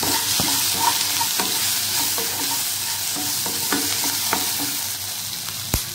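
Onions, tomato and spices sizzling in oil in a nonstick kadai as a wooden spatula stirs them, with short scrapes and taps of the spatula against the pan and one sharp tap near the end.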